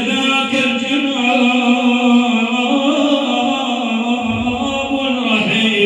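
A man's voice singing one long, slightly wavering held note of a madih, an Islamic devotional praise song for the Prophet. The note falls away near the end.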